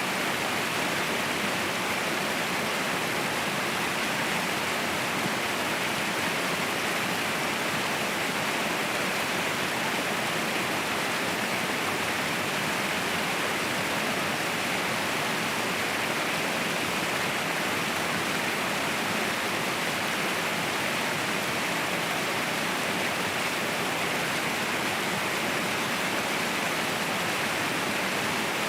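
Waterfall rushing steadily, an even hiss of falling water that stays at one level throughout.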